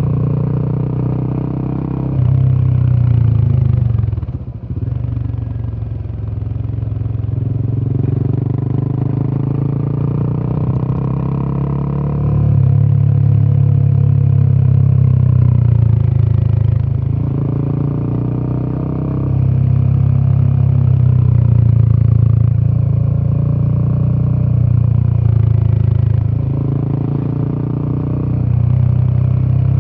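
Royal Enfield Himalayan 450's single-cylinder 452cc Sherpa engine running through its exhaust while riding, with a deep note that rises and falls with the throttle. It drops off briefly about four to five seconds in, then pulls again.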